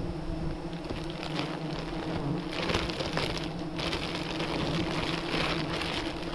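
A swarm of wild honeybees buzzing in a steady hum around their nest as it is being cut, with a stretch of rustling and crackling about two and a half seconds in.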